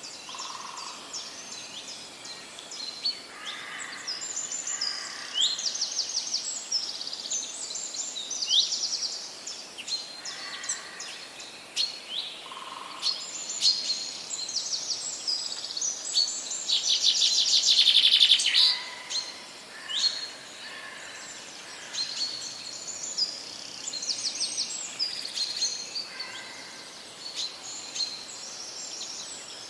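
Mixed chorus of forest birds singing and calling, with many overlapping chirps, whistles and trills. A loud rapid trill builds up about seventeen seconds in and stops about two seconds later.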